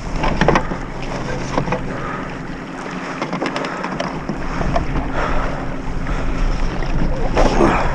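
Wind buffeting the microphone over water lapping at a kayak, with scattered small knocks and splashes against the hull.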